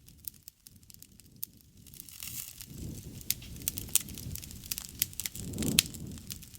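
Wood fire crackling, with sharp irregular pops throughout and a low rushing sound of the flames that swells over the middle seconds and peaks shortly before the end.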